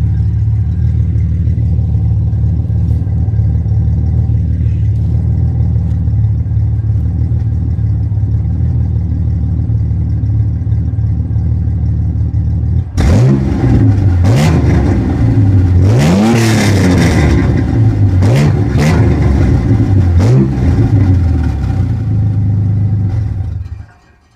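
Exhaust of a 1994 Ford Ranger's 4.0-litre V6 through true dual pipes with two Flowmaster mufflers and no catalytic converters. It idles steadily for about half the time, then is revved in several quick blips that rise and fall, settles back to idle, and the sound cuts off just before the end.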